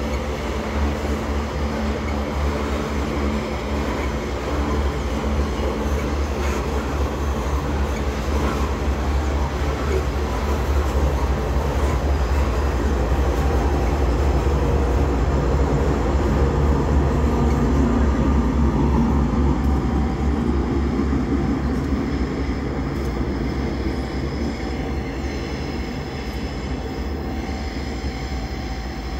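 Loaded iron-ore hopper wagons rolling past on steel wheels, then the rear helper GE AC44i diesel-electric locomotive going by; the rumble is loudest about midway and fades steadily toward the end as the train moves away.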